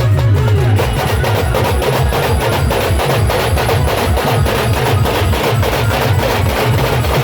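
Band drummers playing a fast, dense percussion rhythm: deep bass-drum beats under rapid, sharp drum strikes, with no amplified music.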